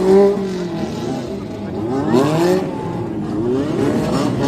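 Supercar engine being revved in repeated blips, its pitch climbing and falling; one rev right at the start and another couple about two seconds in.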